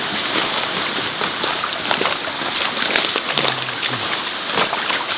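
Steady pattering of falling water: a dense run of many small ticks, with a short low hum about three and a half seconds in.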